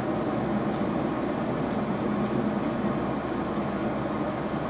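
Steady cabin running noise of a JR Hokkaido KiHa 261-1000 series diesel limited express moving slowly at about 46 km/h under a speed restriction, with a low hum and a few faint high ticks.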